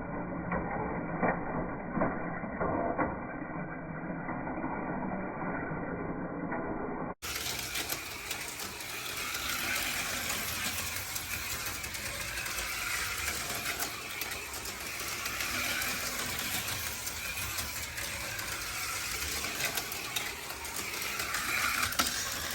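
HO-scale slot cars running laps on a plastic track: the small electric motors whir with a wavering pitch, and guide pins and tyres clatter in the track slots, with sharp clicks in the first few seconds. The sound cuts abruptly about seven seconds in and comes back brighter and fuller.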